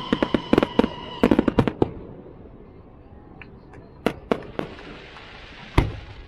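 Fireworks going off: a rapid string of sharp crackling pops over the first two seconds, then a few scattered bangs and one big boom near the end.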